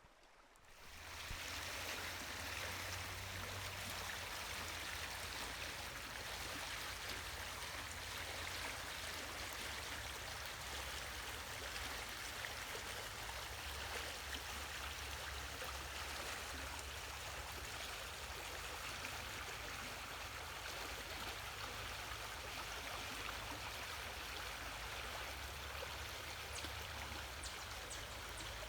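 Creek water rushing steadily over rocks, fading in over the first second or two.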